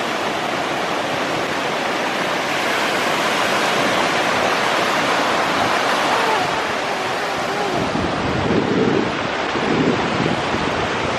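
Ocean surf washing up the beach in a steady rush, with wind gusting on the microphone in the last few seconds.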